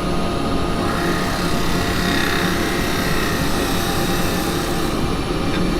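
Axminster 1628 woodturning lathe running steadily, with a 6 mm carbide cutter taking a light cut across the spinning cherry wood to remove a sanding line; a faint cutting hiss rises about a second in and fades a few seconds later.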